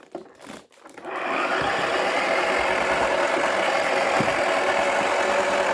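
Wacky Washer toy washing machine's small electric motor switched on about a second in and running steadily, turning a drum loaded with a cricket ball.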